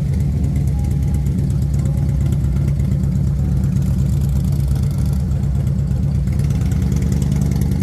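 Motorcycle engine running at a steady idle, with no revving.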